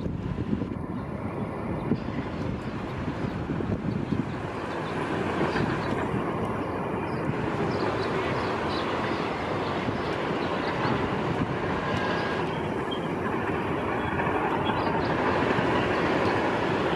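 Steady rumble of heavy construction machinery with light metallic clatter, growing a little louder in the second half.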